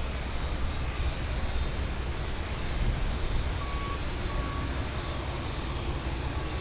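Steady low rumble of jet engines running at an airfield, with a few faint short beeps from about halfway through.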